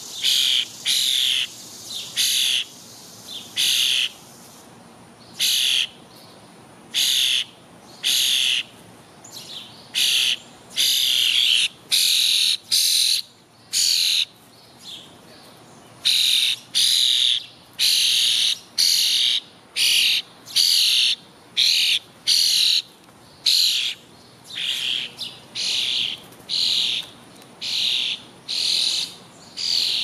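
A bird giving a harsh, raspy call over and over, roughly once a second, each call about half a second long.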